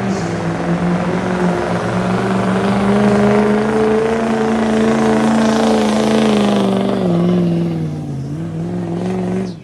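Street stock diesel pickup truck engine running hard under load, pulling the sled; it holds a steady pitch, sags near the end as the load builds, picks back up and then cuts off abruptly.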